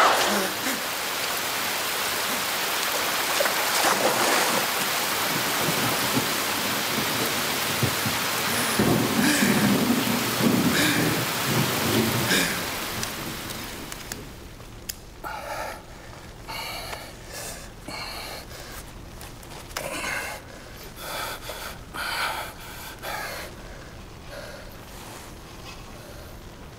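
Steady heavy rain falling, which cuts off about halfway through. The rest is much quieter, with scattered short sounds.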